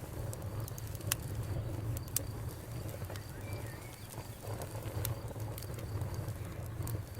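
Campfire crackling: scattered sharp pops and snaps, several seconds apart, over a low steady rumble of burning.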